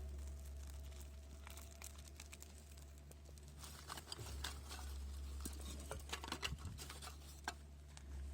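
Crinkling and rustling handling sounds, with a run of small sharp clicks and crackles through the middle, over a faint steady low hum.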